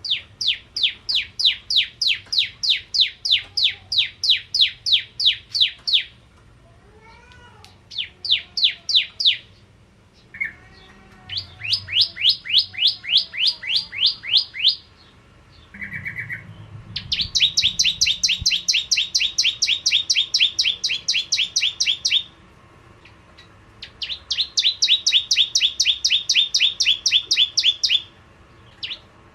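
Bar-winged prinia (prenjak jawa) singing: long runs of rapid, high, evenly repeated notes, about four a second, each run lasting several seconds with short pauses between. Fainter, softer lower notes come between the first runs.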